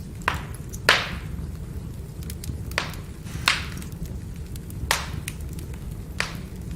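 Firewood burning with sharp pops and crackles, about six distinct pops with the loudest about a second in, over a steady low rumble.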